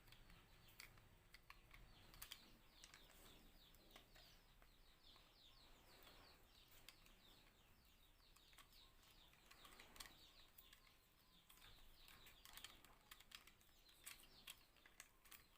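Faint, scattered clicks and taps of small plastic parts and a screw being handled while a phone holder is fitted together.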